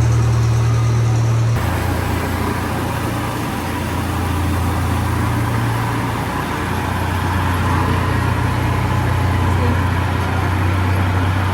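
Vehicle engine running, a steady low drone that shifts in pitch about one and a half seconds in and again around six seconds.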